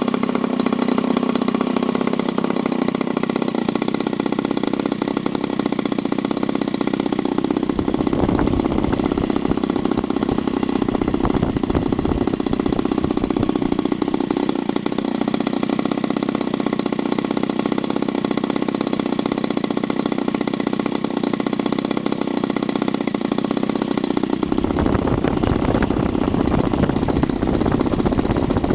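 SV 26cc two-stroke gasoline model-aircraft engine running steadily under load, turning a 17x8 propeller on a test run. A low rumble joins in and out from about eight seconds in and grows stronger near the end.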